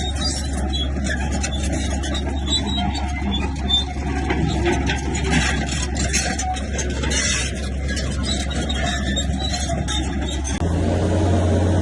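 Heavy diesel earthmoving machine running steadily with frequent metallic clanks and clatter. About a second before the end the engine note steps up and gets louder.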